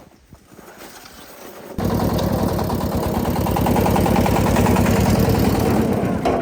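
An engine comes in abruptly about two seconds in and runs steadily and loudly with a fast, even pulsing.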